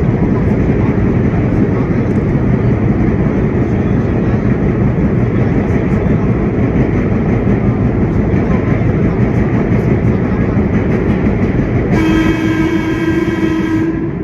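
Vintage R1-9 subway train running through the tunnel, heard from inside the car as a loud, steady rumble of wheels and motors. About twelve seconds in, a horn sounds for about two seconds.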